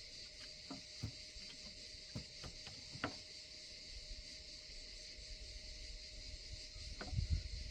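Steady high-pitched chorus of insects with scattered light clicks and knocks, and a few louder low thumps near the end.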